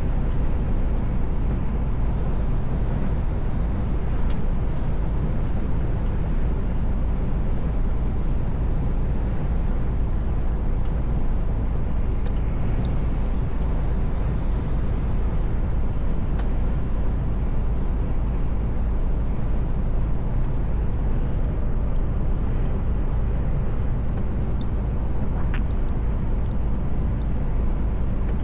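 Steady engine and road noise of a Mercedes Actros L truck on the move, an even drone with no change in level.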